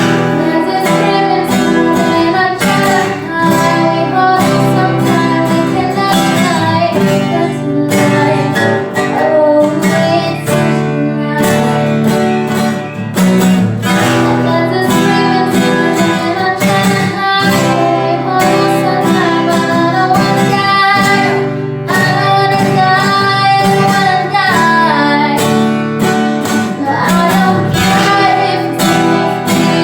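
A woman singing over a strummed acoustic guitar, a steady pop ballad with regular strum strokes.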